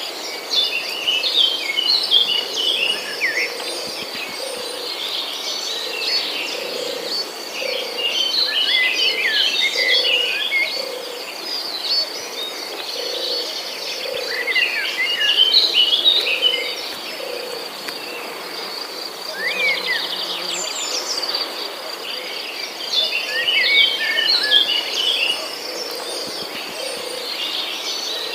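Rainforest ambience: a steady high insect drone under bursts of chirping bird calls that come every few seconds, with a low note repeating about once a second.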